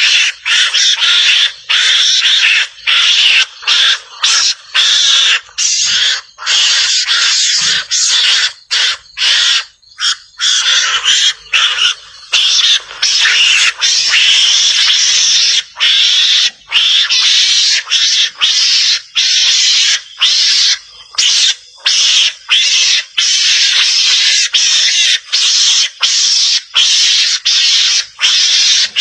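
Mongoose (garangan) lure-call recording: loud, harsh, hissy chattering that runs on almost without pause, broken by many brief gaps.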